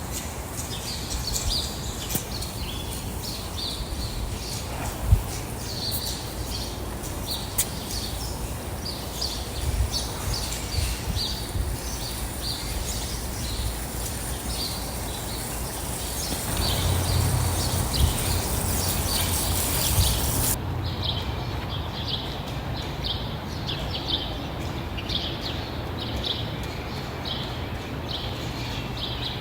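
Small birds chirping: many short, high chirps repeating steadily, over a low rumble that grows louder for a few seconds past the middle.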